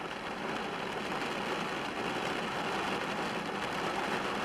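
Steady hiss of heavy tropical-storm rain falling on and around a car, heard from inside the car.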